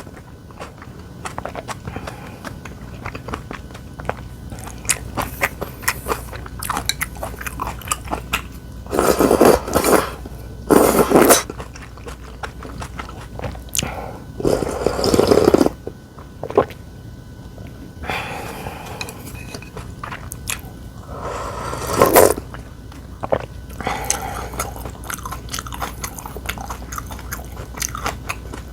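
Close-miked chewing and biting, with many small crunchy clicks and several louder bursts of about a second each.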